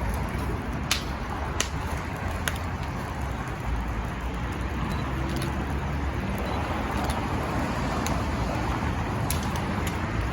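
Steady low rumble of road traffic, with a few sharp pops or clicks early on and one more near the end.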